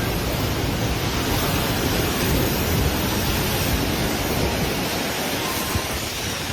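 Steady, loud rush of wind and water noise, without a break.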